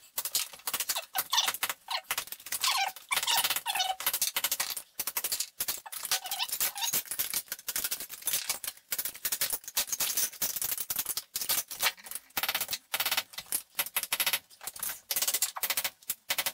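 Wood chisel scraping and prying behind old ceramic wall tiles, with a dense irregular clatter of clicks and scrapes as the tiles and tile pieces come loose. There are a few brief squeaks in the first few seconds.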